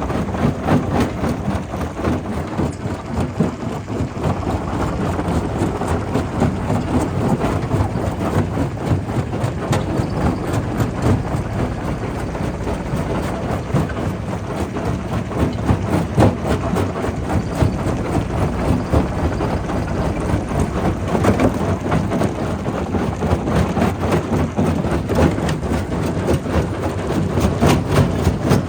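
Primary rock crusher working: stone cracking and clattering inside the crusher, with many sharp knocks over a steady heavy machine rumble.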